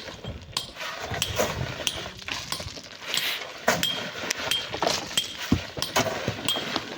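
Hand digging tools working rock and sand: irregular metallic clinks and knocks, several with a short high ring, about one or two a second.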